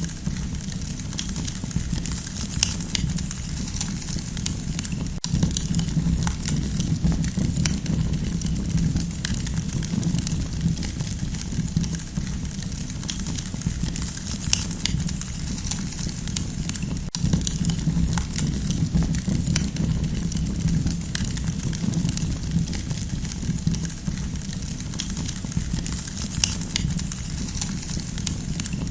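Campfire burning with a steady low rumble and many small, sharp crackles and pops scattered irregularly throughout.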